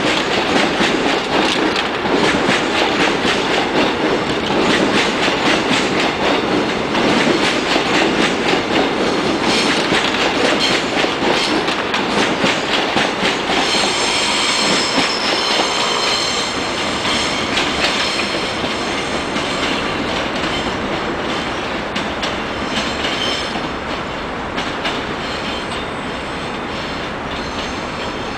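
Electric train running past on the rails, its wheels clicking over the track joints in a fast rhythm. About halfway through, a high wheel squeal rings out for a few seconds as the train rounds the curve. The whole sound slowly fades as the train draws away.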